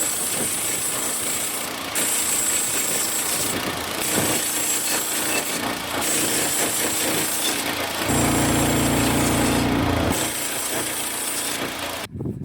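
Portable band sawmill running under load, its small gas engine at high speed and the band blade cutting through a log, in several short stretches; the sound cuts off suddenly near the end.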